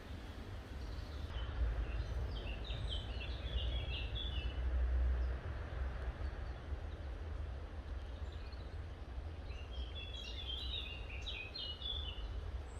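A small songbird singing two quick, chattering phrases of high chirps, one near the start and one near the end, over a steady low rumble.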